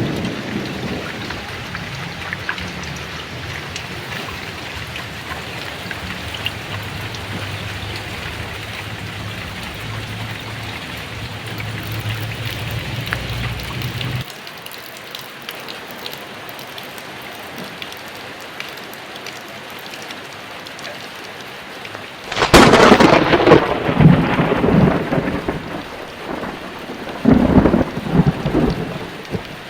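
Heavy rain falling steadily with thunder. A low rumble in the first half cuts off abruptly about halfway, then a sudden loud thunderclap rolls on for a few seconds, with a second burst shortly after.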